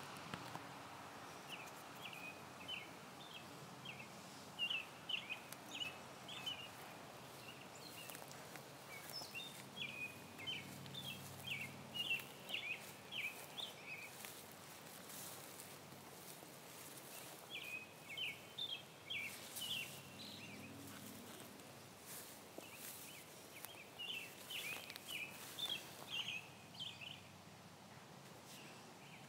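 A songbird singing runs of short, high chirps in three spells of several seconds each, over a faint outdoor hiss. A faint low buzz of bees comes and goes underneath.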